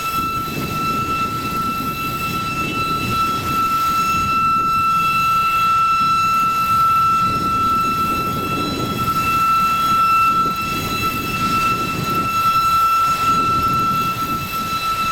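BNSF train rolling past, its low noise swelling and fading every few seconds, with a steady high-pitched squeal held throughout.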